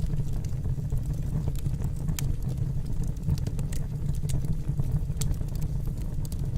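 Wood fire crackling in a fireplace: a steady low rumble with frequent short, sharp crackles and pops from the burning logs.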